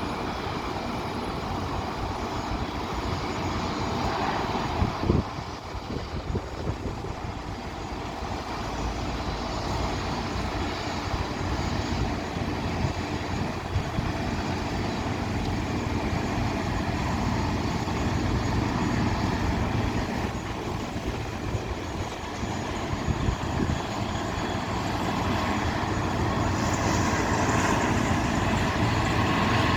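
Jet engines of a Boeing 737-300F, its CFM56-3 turbofans, making a steady rumble that grows louder and brighter near the end. Uneven low buffeting runs underneath, and there is a single sharp knock about five seconds in.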